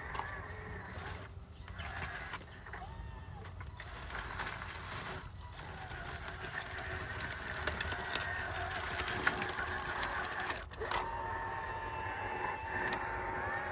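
Small electric motors of RC construction models running with a steady whine, with faint mechanical clicking, growing somewhat louder over the stretch.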